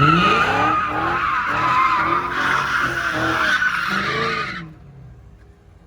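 Car drifting: the engine revs sharply up, then rises and falls again and again as the throttle is worked, over a steady loud tyre squeal. The squeal and revving stop about four and a half seconds in.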